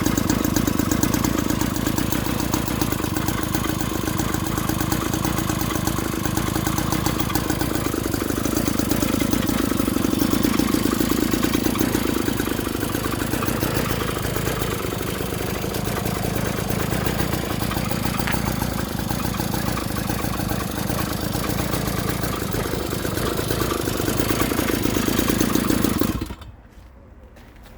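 A 49cc two-stroke pocket bike engine runs steadily at idle with slight rises and falls in speed. It cuts off abruptly about 26 seconds in.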